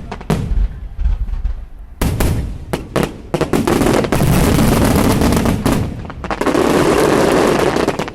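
Fireworks display going off: a few separate bangs, then from about two seconds in a dense barrage of rapid bangs and crackle that cuts off abruptly at the end.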